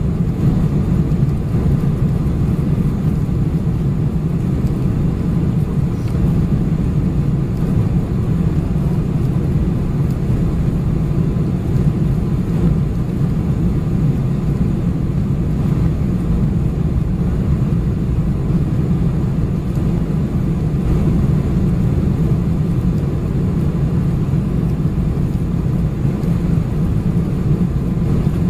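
Steady, unbroken rumble inside the passenger cabin of a Boeing 747-400: engine and airflow noise.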